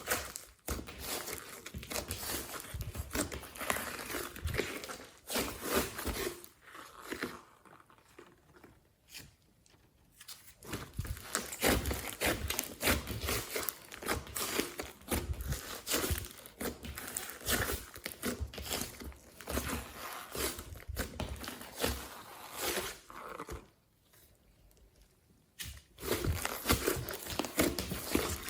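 Slime mixed with foam beads being squeezed and worked by hand, giving a dense run of small crackles, pops and squelches. It goes quiet twice for a few seconds, about a third of the way in and near the end.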